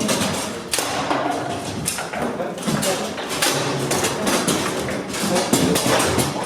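Foosball play on a Bonzini table: irregular sharp knocks and clacks as the ball strikes the men and table walls and the rods are worked, over voices.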